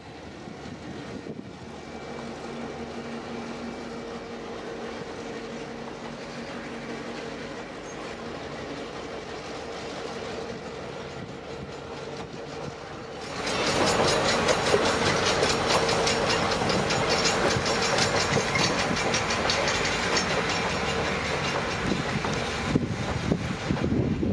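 EMD GP9 diesel locomotive running with a steady engine drone as it hauls a passenger train. About thirteen seconds in the sound jumps louder as the passenger cars roll past close by, wheels clattering on the rails.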